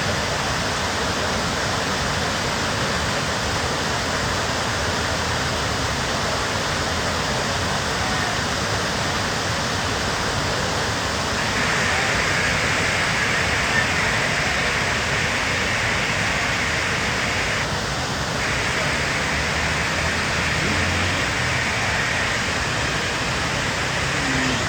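Steady rushing of fast mountain water. About halfway through it grows slightly louder and brighter in its hiss.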